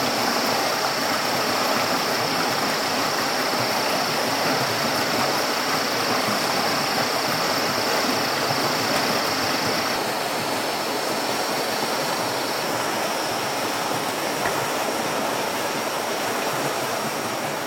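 Steady rushing noise, like running water, with a high continuous drone over it that partly drops out about ten seconds in.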